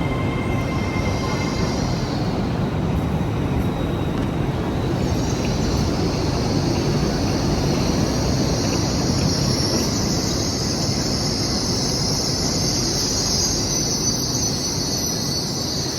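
A train running through the station with a steady, loud rumble; a high hiss joins about five seconds in and continues.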